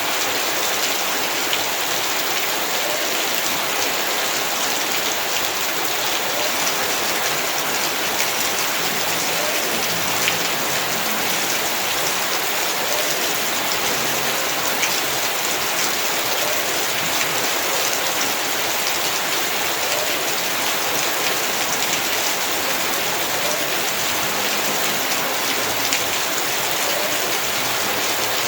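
Heavy rain falling steadily, a dense hiss of drops with fine individual splashes and ticks on the ground and surfaces.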